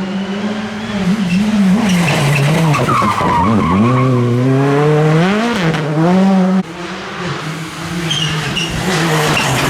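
Rally car engine revving hard, its pitch rising and falling repeatedly through throttle lifts and gear changes, with an abrupt drop in level about two-thirds of the way through.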